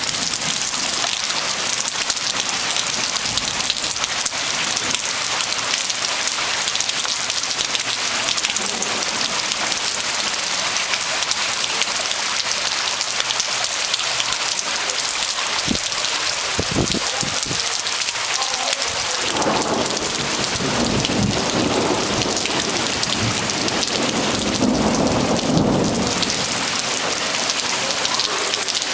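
Heavy rain pouring down steadily. A low rumble builds about twenty seconds in and fades away near the end.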